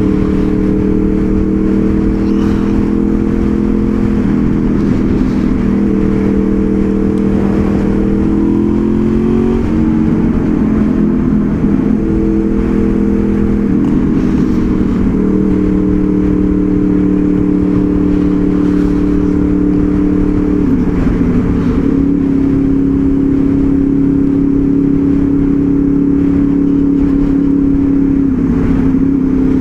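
Honda VFR800 Interceptor's V4 engine running steadily under way, its pitch stepping up or down several times through the stretch, with a constant low rush of road and wind noise beneath it.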